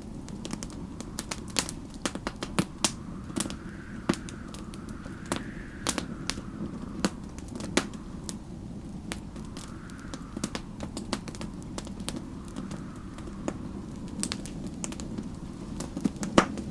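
Wood fire crackling with frequent sharp pops over a steady low rumble, while a snowstorm wind howls faintly in slow gusts that rise and fall every few seconds.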